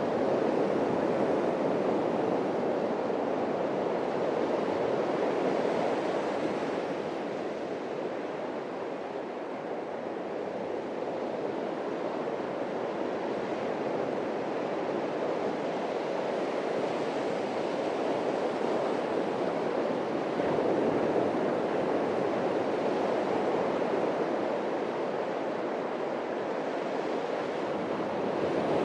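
Atlantic surf washing onto a beach: a steady rush of breaking waves that swells and eases slowly over several seconds.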